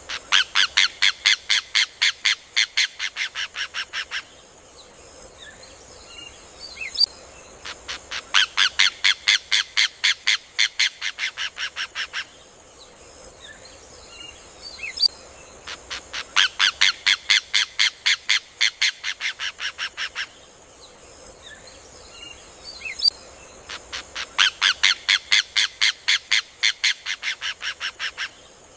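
Rufous hornero (João-de-barro) singing its song four times, about eight seconds apart. Each song is a fast run of about six loud, evenly repeated notes a second, lasting about four seconds and fading toward its end.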